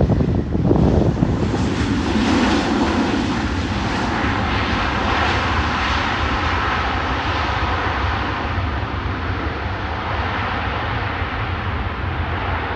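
Jet airliner's engines running loud as it goes by on the runway: a steady rush with a held whining tone, swelling a couple of seconds in and easing slightly toward the end.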